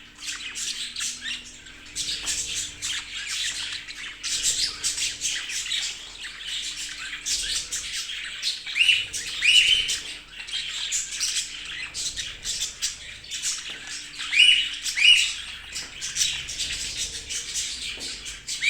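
Several budgerigars chattering and squawking continuously, with a pair of louder, sharp rising calls about halfway through and another pair later.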